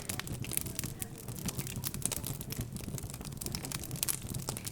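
Wood fire crackling with frequent irregular pops, over a low murmur of indistinct background chatter.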